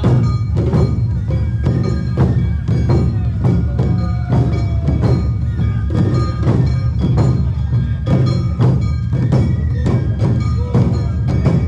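Awa Odori festival band music: drums and a small gong striking a steady beat at about two a second, with pitched instruments playing over it.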